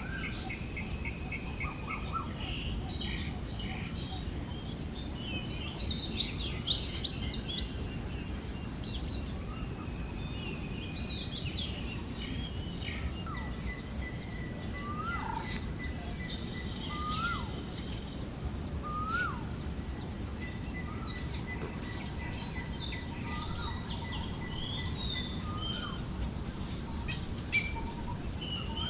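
Forest ambience: a steady high insect trill under scattered bird chirps and calls, over a low breeze rumble. Midway one bird gives the same short call three times, about two seconds apart.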